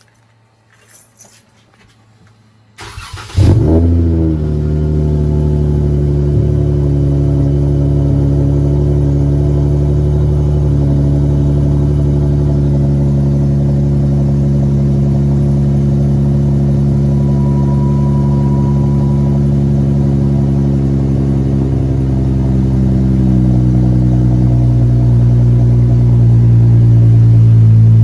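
2019 Dodge Charger GT's 3.6-litre V6 with its rear mufflers removed, starting up about three seconds in with a brief loud flare, then idling steadily and growing slightly louder near the end.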